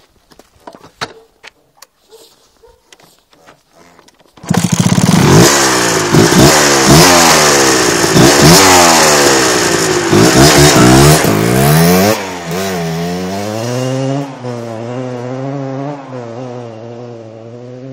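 1987 Kawasaki KMX 125's two-stroke single-cylinder engine, on its original exhaust, starts suddenly about four seconds in after a few light clicks. It is revved up and down over and over, then drops to a quieter, gently wavering idle for the last few seconds.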